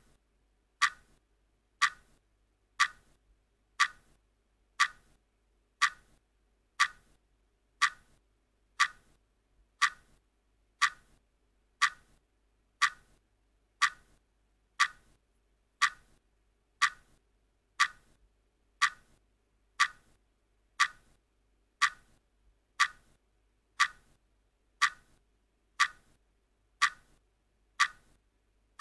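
Clock ticking steadily, one sharp tick a second, marking off the seconds of a countdown timer.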